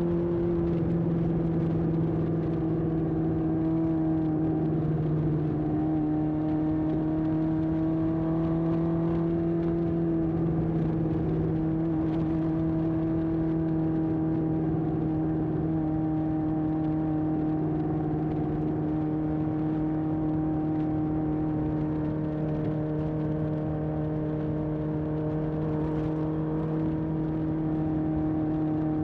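1981 Honda CB750F's air-cooled inline-four engine running at a steady cruise through a vintage Yoshimura exhaust, its note holding a nearly constant pitch with only slight shifts.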